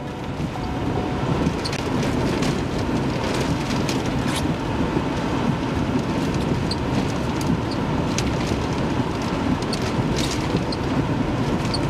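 Storm wind and rain buffeting a chase vehicle in a tornado's winds: a dense, steady rush with scattered sharp knocks and ticks of things hitting the vehicle.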